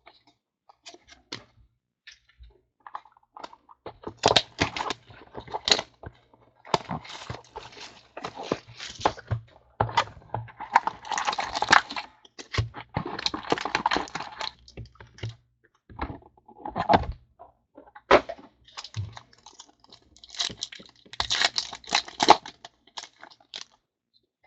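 Trading card packs and cards being handled: crinkling and rustling of wrappers and card stock, with many small clicks and taps. The rustling comes in louder spells about halfway through and near the end.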